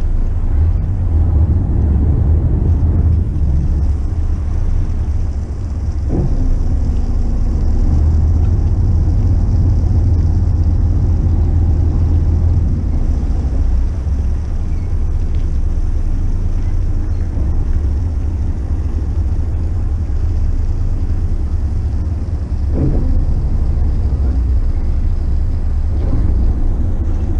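Steady low rumble of a McKinna 65 motor yacht running slowly, its engine drone mixed with wind buffeting the microphone.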